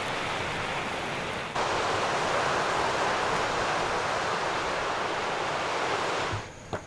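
Surf washing steadily on the shore, a hiss with no distinct breaks, jumping suddenly louder about a second and a half in and dropping away near the end.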